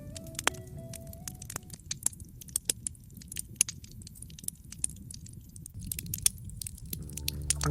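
Wood fire crackling, with frequent sharp pops and snaps over a low rumble of flames. Soft music fades out about a second and a half in and starts again near the end.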